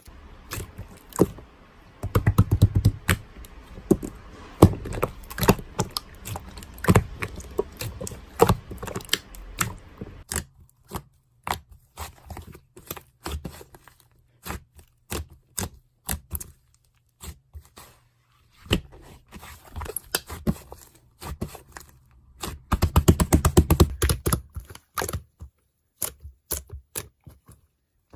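Irregular clicks, taps and scrapes of objects being handled, thick in two busy runs with sparser, quieter stretches between.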